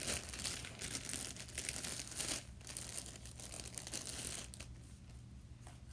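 Hands squishing and pulling pink slime, with dense irregular crackling and popping that thins out after about four and a half seconds.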